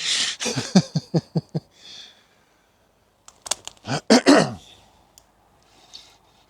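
Fishing reel clicking in quick runs as a hooked chub is played, with a short vocal sound from the angler partway through.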